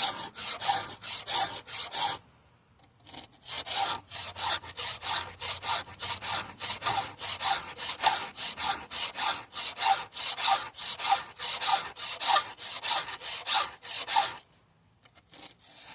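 A hand file scraping steadily across a chainsaw chain's teeth, about three strokes a second, with two short pauses between runs of strokes.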